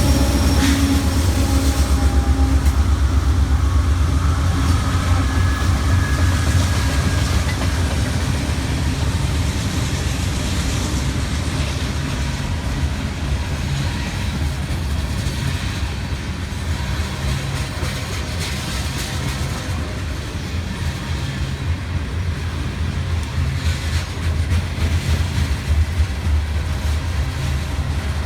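Freight train rolling past on the rails: a steady, loud low rumble of the cars with scattered wheel clicks.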